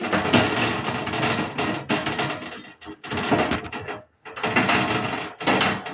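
Metal clicking and rattling as a screw is driven in by hand to fasten the capacitor to the heater's fan motor, in four stretches with short pauses between them.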